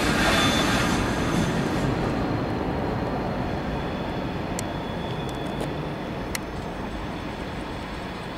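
A train rolling over the station tracks, its rumble fading steadily as it moves away. A high wheel squeal dies out at the very start, and a few sharp metallic clicks come about halfway through.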